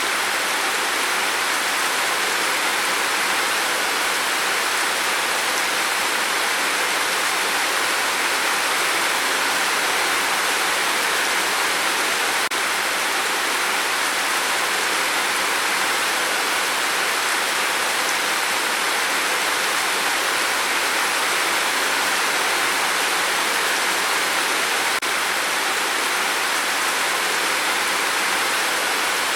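Steady rain falling on a tin roof, an even, unbroken noise.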